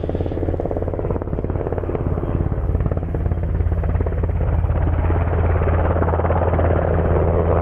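NH90 military helicopter running, with its rotor beating in a fast, even pulse over a strong steady low drone. It grows a little louder over the last few seconds.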